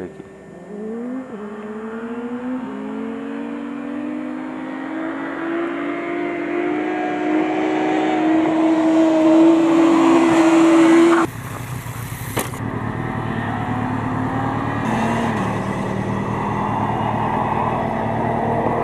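Motorcycle engine accelerating, its pitch climbing in steps through the gear changes and growing louder. About two-thirds of the way through it cuts off suddenly. After a brief hiss, engine running is heard again at a steadier, lower pitch.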